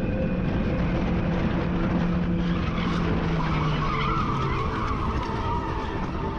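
Car engine running with tyres skidding, and a wavering tyre squeal from about halfway through.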